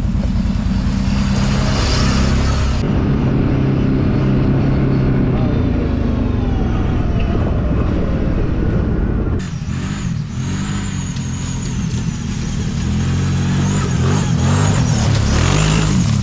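Kawasaki Brute Force 750 ATV's V-twin engine running under way on a rough trail. It holds a fairly steady note for the first several seconds, then rises and falls repeatedly from about ten seconds in as the throttle is worked on and off.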